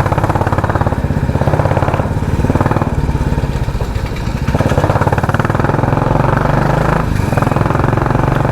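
Royal Enfield Classic 350 single-cylinder engine running under way through a loud aftermarket 'helicopter' exhaust, its rapid, even firing pulses clearly audible. The engine note dips briefly about four seconds in and then picks up again.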